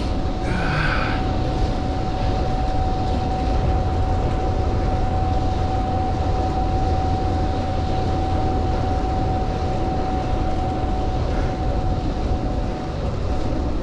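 Wind rushing over the microphone of a bicycle descending fast downhill, a loud, steady, low rumble, with a thin steady whine running until near the end.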